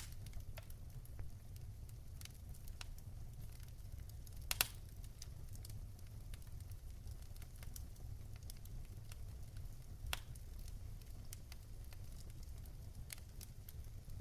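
Wood fire in a fireplace crackling: scattered sharp pops over a low steady rumble, with the loudest pop about four and a half seconds in and another about ten seconds in.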